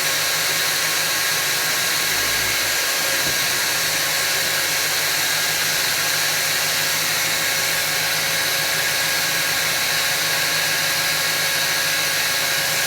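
Electric drill running steadily with a constant whine, drilling holes in beech slats.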